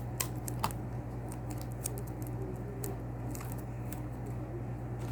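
Scotch tape being pulled off, torn and pressed onto folded paper: scattered small clicks and crinkles, over a steady low hum.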